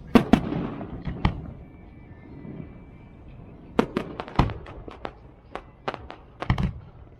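Fireworks going off: a couple of loud bangs right at the start and another about a second later, then a quick run of sharp cracks and pops from about four seconds in.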